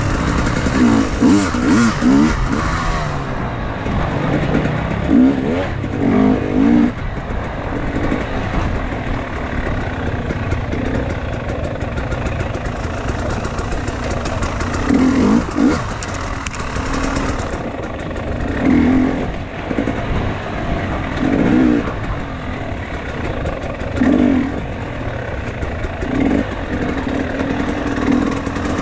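Enduro motorcycle engine running under way off-road, with short throttle blips that briefly raise its pitch and loudness: a cluster of them in the first seven seconds, then one every few seconds.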